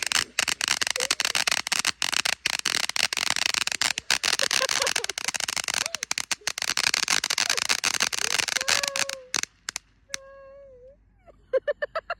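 Consumer ground firework fountain crackling and sparking, a dense stream of sharp snaps and hiss, cutting off about nine seconds in as it burns out. A few high, wavering voice-like calls follow near the end.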